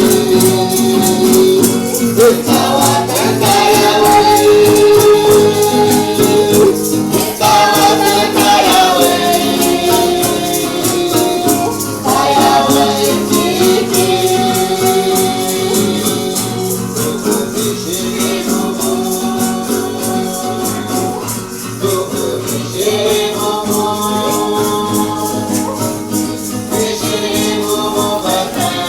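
Music: voices singing a chant together over shaken rattles that keep a steady rhythm.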